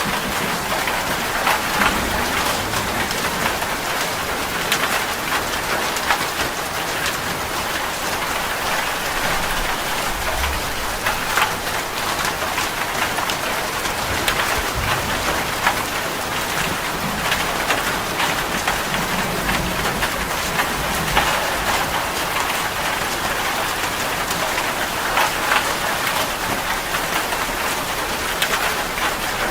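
Heavy rain drumming steadily on a metal roof, with many sharp drop ticks on top of a dense hiss, and a few low rumbles of thunder.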